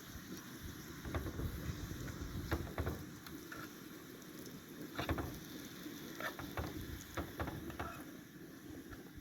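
Food frying in a pan, with scattered short clicks and scrapes of a utensil stirring it.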